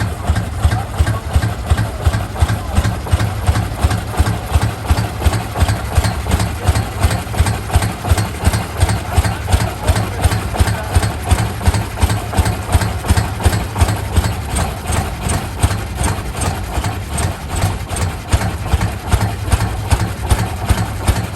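Rumely OilPull tractor's kerosene-burning engine running steadily, with an even beat of about three exhaust strokes a second.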